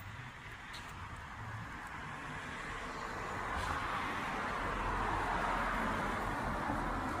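A vehicle passing: a rushing noise that builds gradually to a peak about five seconds in, then eases off slightly.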